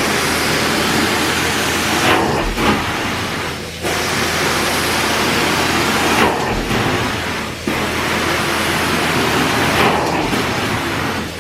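Loud, steady suction hiss from carpet cleaning equipment being worked across carpet. The sound changes in short strokes about every three to four seconds, as the tool is pushed and pulled.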